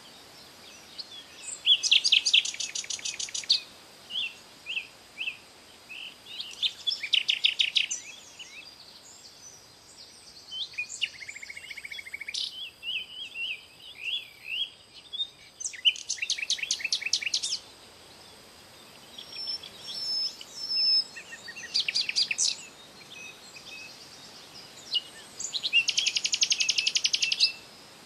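Songbirds singing: one bird repeats a loud, fast trill of a second or two five times, and shorter chirps and whistles from other birds fill the gaps.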